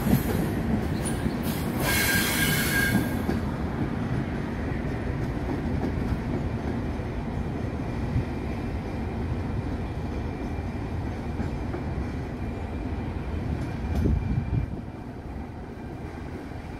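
Passenger train rolling over the points and curves of a station throat. Its wheels squeal shrilly for the first three seconds, then there is a steady rumble of wheels on rail that slowly fades as the train moves away, with a thump about fourteen seconds in.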